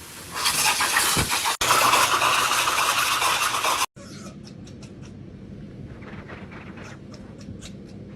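Pet blow dryer running loudly with a steady rushing noise, cutting off abruptly about four seconds in. A quieter stretch follows, with a low hum and a few faint clicks.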